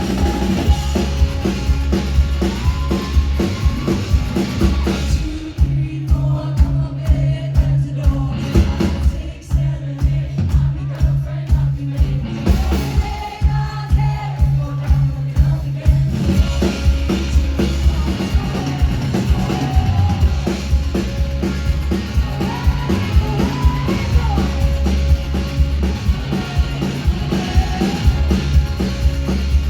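Live rock band playing a song with a woman singing lead over drums and bass. The band thins out to a sparser passage from about five seconds in, then comes back in full about sixteen seconds in.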